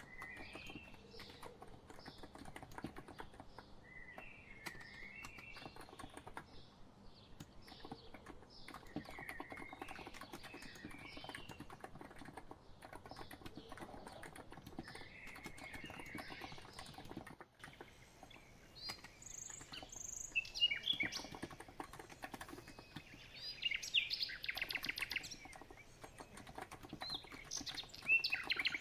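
Steady typing on a COX Empress electro-capacitive keyboard, a continuous patter of soft key clicks, under birds chirping and warbling. The bird calls grow louder in the second half.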